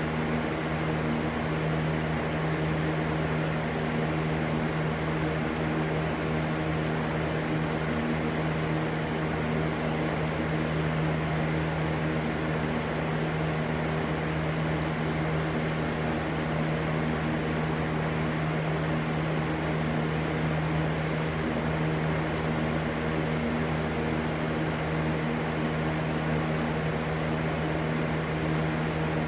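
Steady, unchanging white-noise rush with a low hum running through it.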